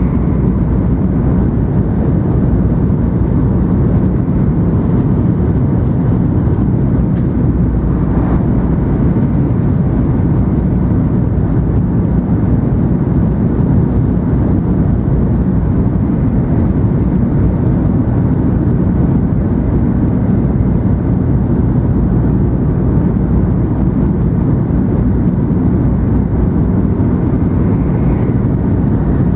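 Steady running noise inside the passenger cabin of an N700 series 8000 Shinkansen train, a continuous low rumble.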